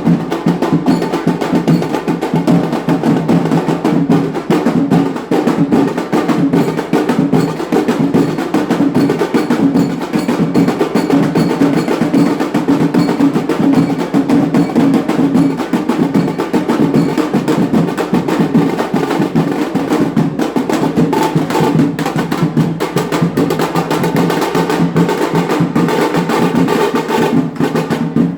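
Indian wedding band (band baaja) playing: fast, dense drumming over held melodic tones, running steadily without a break.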